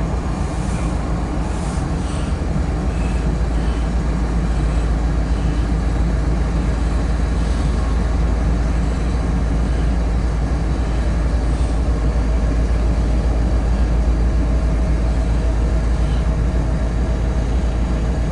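Steady low rumble of a freight train, holding even throughout with no horn or bell.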